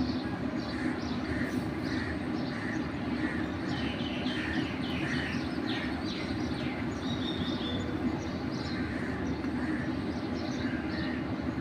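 A small songbird chirping again and again in short high notes, with a run of quick falling notes around the middle and a brief trill after about seven seconds. Beneath it runs a steady, louder low rumble of background noise.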